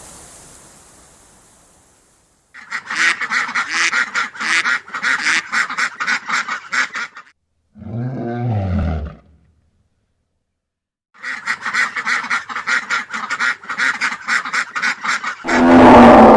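Ducks quacking in two long runs of rapid, evenly repeated quacks, with a short low call falling in pitch between them. A loud roar begins near the end.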